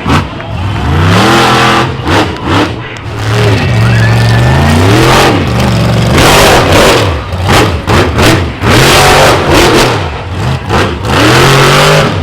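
Monster truck engine revving hard, loud, its pitch climbing and dropping again and again as the throttle is worked on and off.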